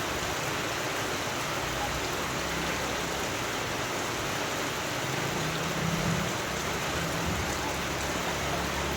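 Steady rain falling, an even hiss, with a low rumble swelling briefly about six seconds in.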